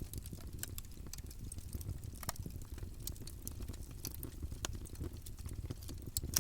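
Campfire burning: a steady low rumble of flame with scattered sharp crackles and pops from the burning wood, one louder pop just before the end.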